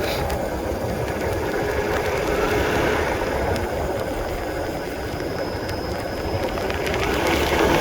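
Honda CB150R's single-cylinder engine running while riding, under a steady rush of wind and road noise, getting louder near the end.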